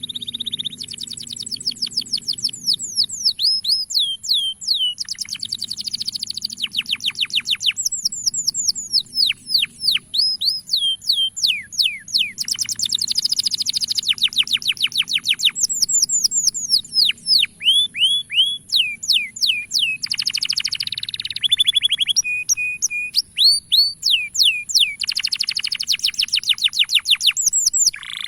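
Male canary singing a long, continuous song of rapid trills, each made of quick whistled notes sweeping downward in pitch, with rolling faster passages between the phrases.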